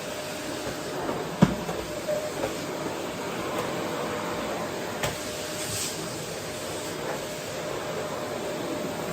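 Vacuum cleaner running steadily: an even rush of air with a faint steady tone. A sharp knock about a second and a half in, and a smaller click around five seconds.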